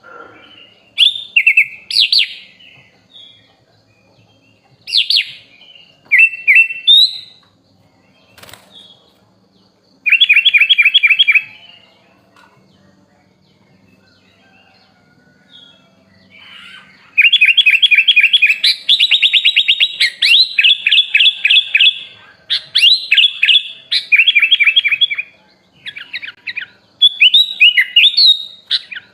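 Sooty-headed bulbul singing in bursts of quick, sharp whistled notes, with pauses between phrases. About a third of the way in it gives a short rapid trill, and from a little past the middle a long run of fast repeated notes.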